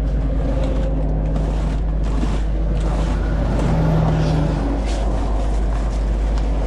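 Motor vehicle traffic passing over a steady, loud low rumble, with one engine swelling about four seconds in and then fading.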